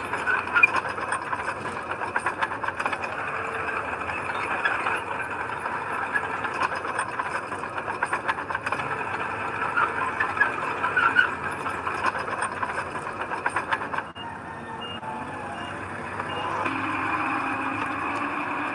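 Heavy earthmoving machinery running, with a stream of metallic clanks and rattles. After an abrupt change about 14 s in there is a run of short high beeps, about two a second, typical of a reversing alarm, and then a steadier engine sound.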